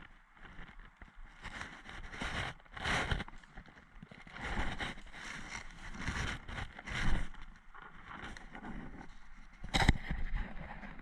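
Irregular rustling and crunching of a player moving on foot through woodland undergrowth, with a single sharp crack about ten seconds in.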